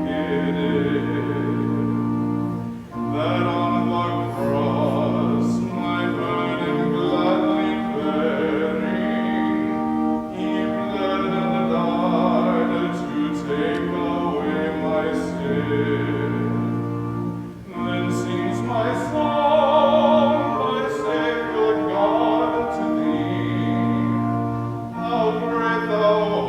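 Classical-style singing with vibrato over held, sustained chords, in phrases that break briefly about three seconds in and again past the middle.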